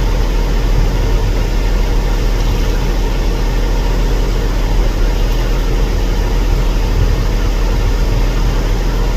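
Garbage truck's CNG engine idling steadily, a constant low rumble with no change in pace.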